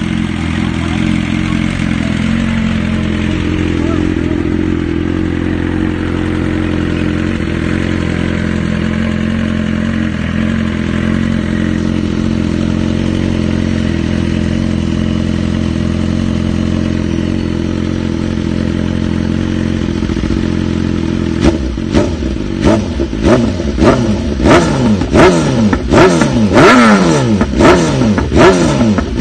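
BMW S1000RR inline-four sport bike engine through a decatted SC-Project S1 exhaust, idling steadily. About twenty seconds in it breaks into a quick run of short throttle blips, about two a second, each revving up and dropping straight back.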